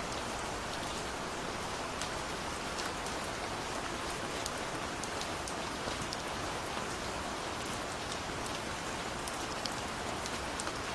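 Steady rain falling, a continuous hiss with many small, distinct drop ticks scattered through it.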